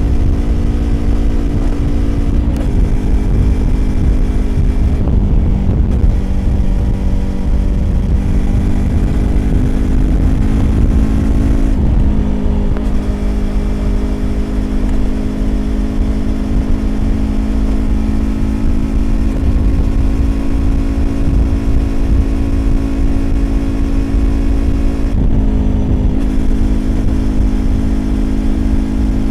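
Yamaha YZF-R25's parallel-twin engine through a Prunus aftermarket exhaust, running under way at steady revs. Its pitch briefly drops and steps several times, about two and a half, five, twelve and twenty-five seconds in, as the throttle is eased and reopened.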